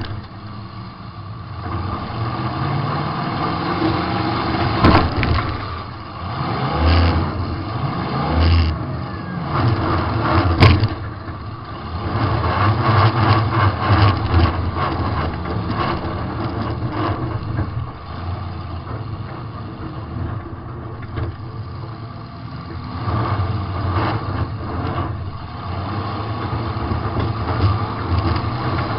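Demolition derby car's engine, heard from inside the car, revving up and dropping back over and over, with a few sharp metal-on-metal crash bangs, the loudest about ten seconds in.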